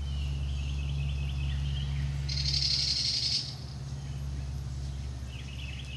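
A small bird chirping in quick wavering runs, with a short rapid high trill about two seconds in, over a steady low hum.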